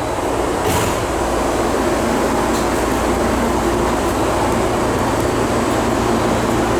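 Steady running noise inside a Tokyu 3020 series commuter train car: an even rolling rumble with a low hum, and a brief light click under a second in.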